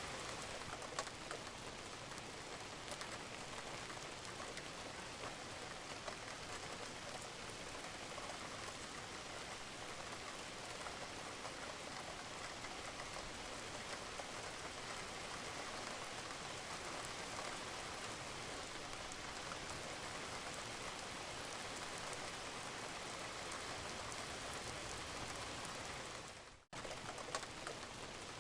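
Steady rain falling on a roof, with occasional sharper drips. The sound cuts out for an instant about 26 seconds in, then resumes.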